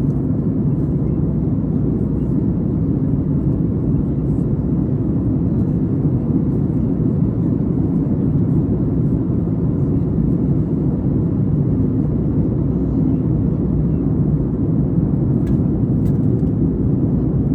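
Steady low rumble of airflow and engine noise inside the cabin of a Boeing 737 MAX 8 in flight. A few faint clicks come near the end.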